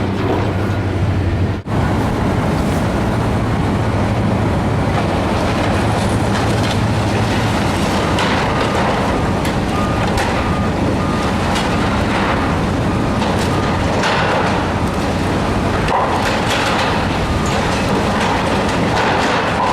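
Heavy demolition machinery running steadily while steel and debris crunch, scrape and clank, with the knocks growing more frequent in the second half. Faint short beeps at one pitch sound around the middle.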